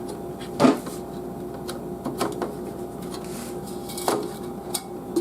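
A handful of light clicks and taps from a RAM stick being handled and lined up against a motherboard memory slot, over a steady hum.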